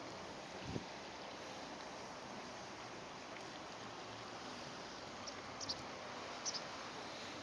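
Steady rushing noise of a flowing stream. A single dull low thump comes about a second in, and a few short high chirps come near the end.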